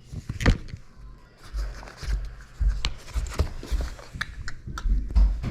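Rummaging through a bag of plastic camera mounts and accessories: irregular clicks, knocks and rustling handling noise, with a few low thumps.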